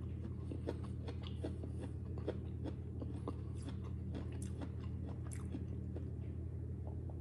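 A person chewing a mouthful of corn-laden chicken soup close to the microphone: small, irregular wet clicks and crunches of corn kernels, over a steady low hum.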